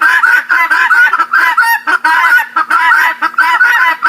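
Guineafowl calling in a fast, unbroken run of harsh, scratchy calls, about four or five a second.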